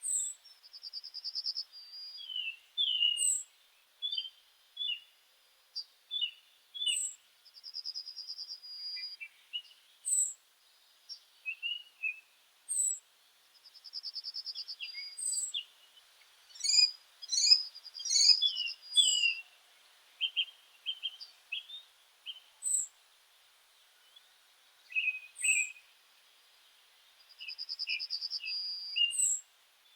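Several meadow birds singing and calling together: a short trill about a second long repeats every five to seven seconds among high thin falling notes and scattered chirps, busiest around the middle.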